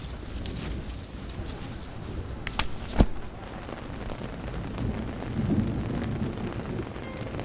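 Thunderstorm: steady rain with a sharp crack about three seconds in and low rolling thunder swelling a couple of seconds later. Faint musical tones come in near the end.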